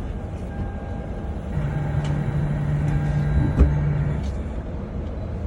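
Car engine running with a steady low rumble. A low steady hum joins it for a couple of seconds from about a second and a half in, and there is a single thump shortly after three and a half seconds.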